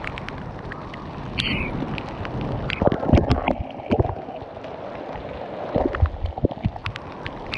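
Storm wind buffeting the microphone, with rain and hail striking and making many sharp, irregular ticks.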